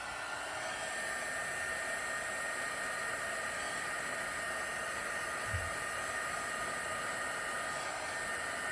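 Hot air gun running steadily on heat-shrink tubing, a noisy blowing rush with a steady high whine over it.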